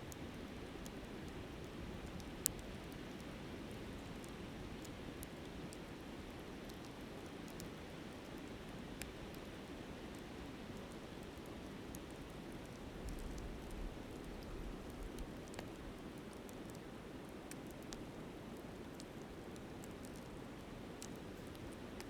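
Steady rush of a flowing river with a wood campfire crackling over it in scattered sharp ticks, one louder pop about two and a half seconds in.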